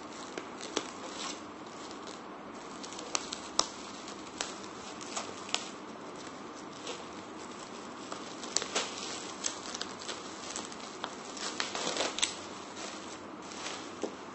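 Plastic bubble wrap being handled and pulled off a boxed toy, crinkling with scattered short, sharp crackles.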